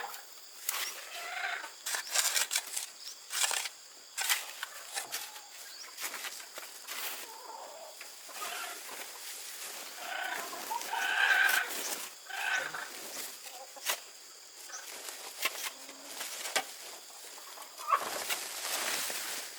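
Chickens calling and clucking now and then, the loudest calls about 11 and 12 seconds in, among many scattered sharp taps and clicks.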